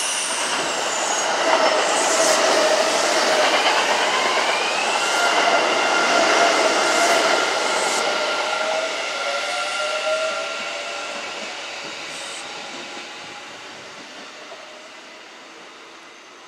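Electric train running through the station: wheel and rail noise with a motor whine whose tones climb in pitch, loud for the first ten seconds, then fading as it moves away.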